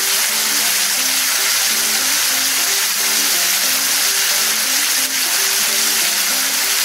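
Mutton pieces sizzling in hot oil in a pan, a steady hiss, under background music of short melodic notes.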